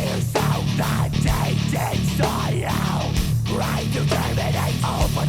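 Heavy metal music with no vocals: distorted electric guitars and drums playing an instrumental passage.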